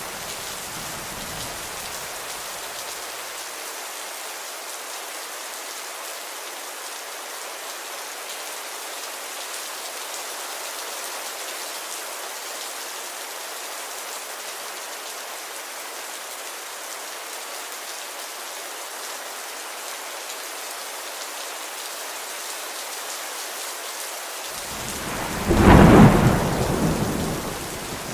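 Steady rain hissing, with a loud roll of thunder rumbling up and fading away over a couple of seconds near the end.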